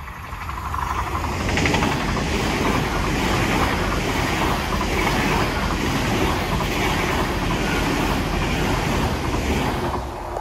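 Great Western Railway Class 8xx bi-mode Intercity Express Train passing close by at speed, on its underfloor diesel engines on this unelectrified line. Wheels run over the rails and the coaches rush past. The noise builds over the first second or so, holds steady while the coaches go by, and starts to fall away near the end as the rear cab passes.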